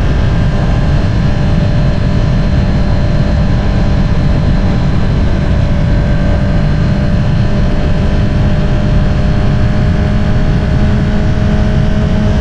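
Honda CBR650R's inline-four running through an Akrapovič single-outlet exhaust while the bike cruises, a deep, even exhaust note at nearly constant revs with no sharp revving.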